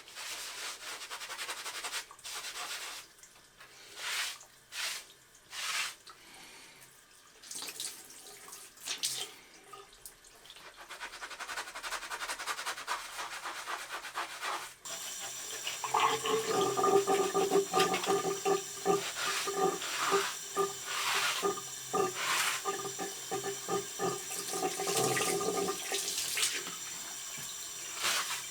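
Water running from a bathroom tap, starting with intermittent splashing and rubbing. About halfway through it gets louder and a steady humming tone comes in, lasting some ten seconds before the tone stops.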